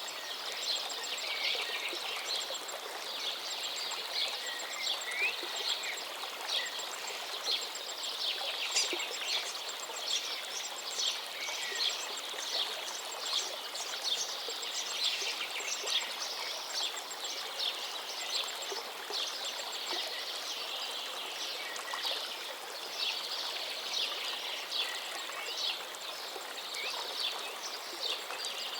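A river's steady rush of flowing water, with many small birds chirping and trilling continually over it.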